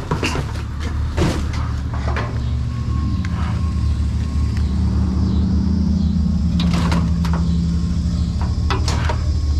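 Pickup truck engine running with a steady low drone, its pitch rising a few seconds in and then holding. Several knocks and clunks are heard over it.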